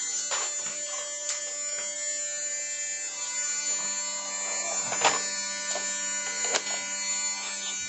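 Vacuum cleaner motor running steadily, with a few knocks and bumps, one sharper knock about five seconds in.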